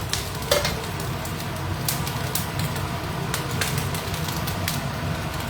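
Minced ginger sizzling in hot oil in a wok as it is stir-fried, with scattered sharp clicks of a spatula against the pan.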